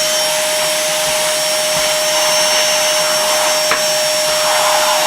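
Novete VT-DH005 cordless handheld vacuum cleaner running at full power while trying to suck up a dry board marker pen: a steady motor whine over rushing air. A single sharp click comes about three and a half seconds in.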